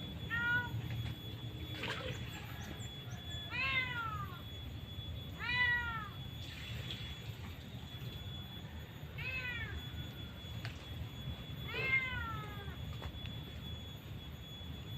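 A cat meowing repeatedly: five separate meows, each rising and falling in pitch, a few seconds apart.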